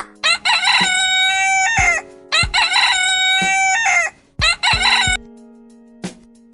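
Rooster crowing twice, each crow a long held call of about a second and a half, followed by a few short calls; plucked background music near the end.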